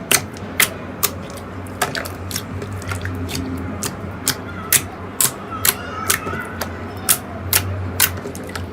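Slime being pressed and poked, with trapped air popping in sharp, crisp clicks at roughly two a second, unevenly spaced.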